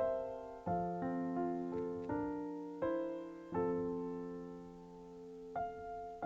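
Background piano music, gentle notes and chords struck every half second to a second and left to ring and fade.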